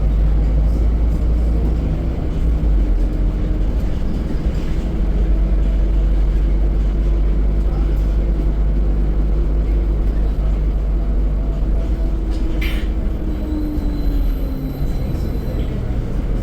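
Scania K-310 6x2 bus under way, its diesel engine droning steadily over road rumble, the engine note slowly shifting. A single sharp click comes about 13 seconds in, followed by a faint high tone for about two seconds.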